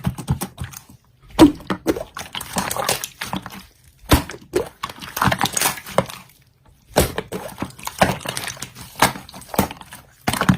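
Slime being played with by hand: irregular squishing and clicking in short bursts, with brief pauses between them.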